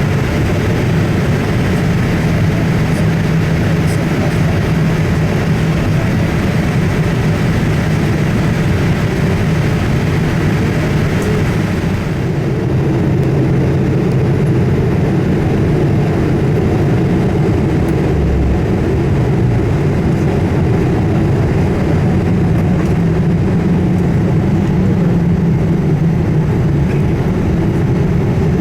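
Steady cabin noise inside a Boeing 787-8 in flight: a low rumble of airflow and its two General Electric GEnx-1B engines, with a hiss above it that eases a little about twelve seconds in.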